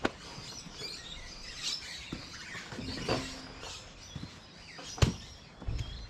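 Birds chirping in the background, with a few faint knocks and one sharp knock about five seconds in.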